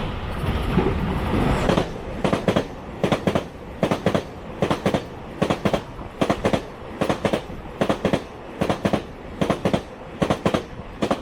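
Train passing: a rumble in the first two seconds, then the wheels clacking over a rail joint in steady double beats, about one pair of clacks every 0.8 s, as each bogie's two axles cross it.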